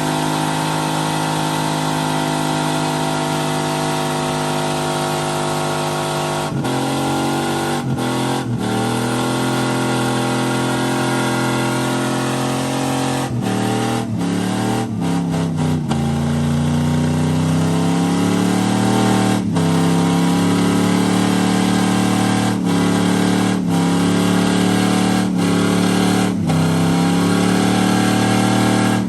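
Truck engine revving hard and held at high revs, with brief dips in pitch and a climb to a higher held pitch about halfway through, as in a burnout.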